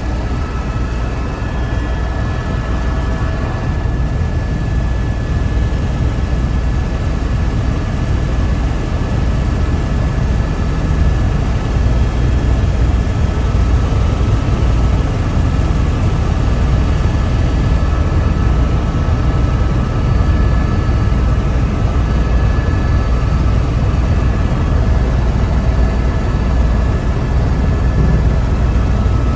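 Helicopter in flight, heard from the cabin: a steady deep rumble from the engine and rotors with a constant high whine above it.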